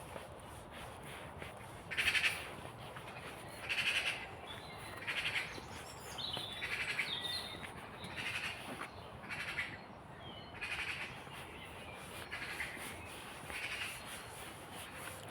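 A bird repeating a harsh, raspy call about every second and a half, about ten times, with small birds chirping higher up in between.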